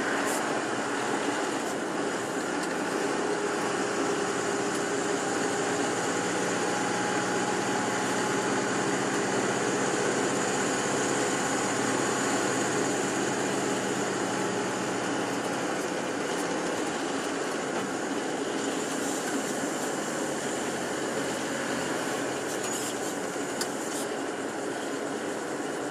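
Bus engine and road noise heard from inside a moving tour bus: a steady drone with a faint engine hum, and a few light clicks or rattles near the end.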